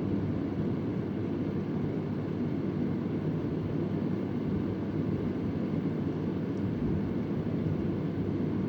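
Vintage Convair oscillating electric fan running steadily: an even, low rush of moving air with no change in level.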